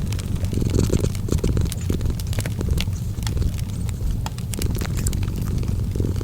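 A cat purring, a steady low rumble, mixed with a wood fire crackling: frequent sharp pops and snaps scattered over the purr.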